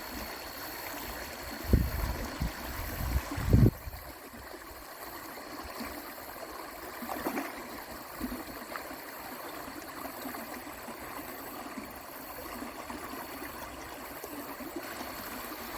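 Creek water running steadily. Between about two and four seconds in, several low thumps, the loudest sounds here.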